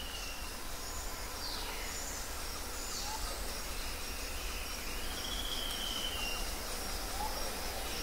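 Nature ambience: a steady low hiss with scattered faint bird chirps and calls, and one longer, slightly falling whistle about five seconds in.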